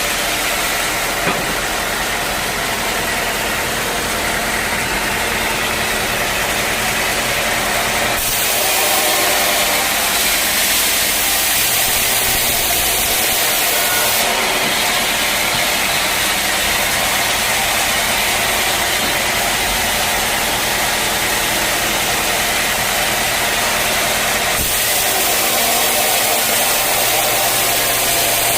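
Sawmill running steadily while sawing a teak log: a loud machine drone with a strong hiss over it, whose character shifts abruptly a few times.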